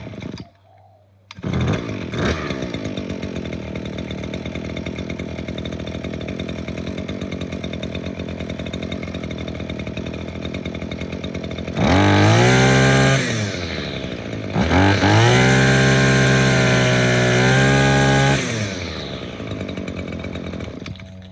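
Tanaka two-stroke trimmer engine cold-started on choke: a pull of the starter cord, a second pull, and it catches and settles into a steady idle. Near the middle it is revved twice, the second rev held for a few seconds, then it drops back to idle.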